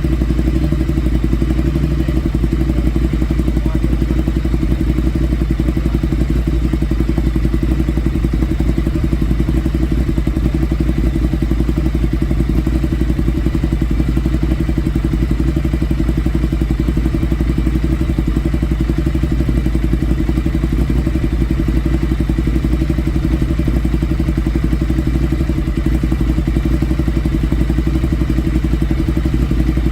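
Ducati Multistrada 1200's L-twin engine running loud and steady through an SC-Project exhaust with the dB killer removed, holding one engine speed without revving.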